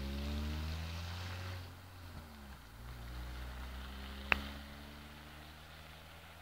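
Scania 144-530's 14-litre V8 diesel engine running and rising in pitch, then easing off and going quieter about two seconds in before picking up faintly again. A single sharp click about four seconds in.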